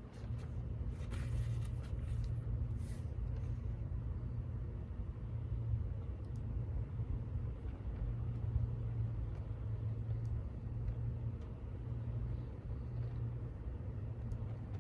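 Steady low rumble of a vehicle on the move, heard from inside, swelling and easing slightly.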